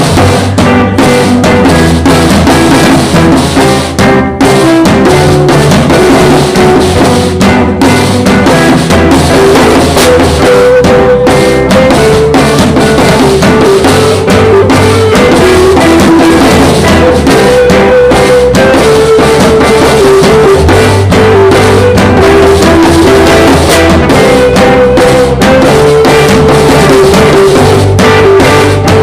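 Live band playing: drum kit, bass and a melodic lead line, recorded very loud and distorted.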